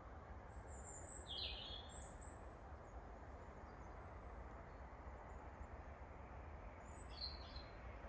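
Faint songbird chirps, a short high call about a second and a half in and another near the end, over a steady low background rumble.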